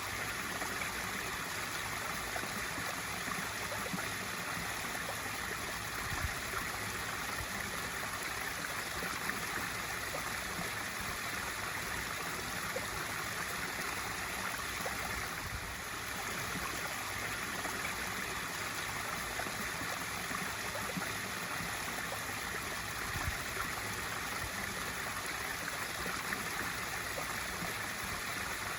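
Swimming pool waterfall feature: water pouring steadily into the pool with a constant splashing rush.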